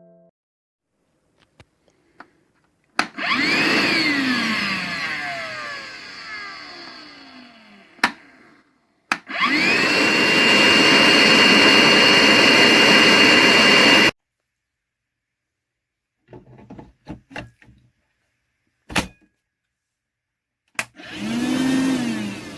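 DEWALT DCV580H 20V cordless shop vacuum switched on and off in short runs, with switch clicks between them. Its motor first whines up and coasts down with a falling pitch, then runs steadily for about five seconds with a high whine and stops abruptly. Near the end it makes another short spin-up and coast-down.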